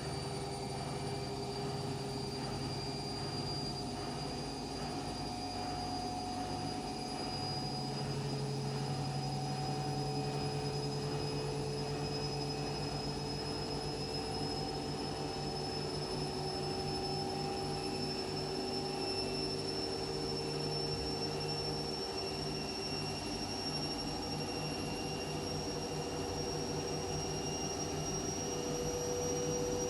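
Washing machine running, a steady mechanical hum with a high motor whine that rises slowly in pitch throughout.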